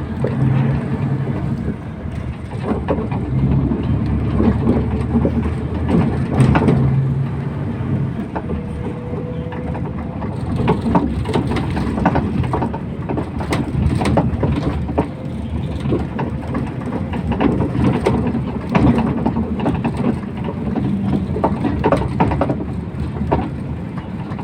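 Inside a MAZ 241 bus on the move: the engine runs steadily, with frequent rattles and knocks from the body and the road.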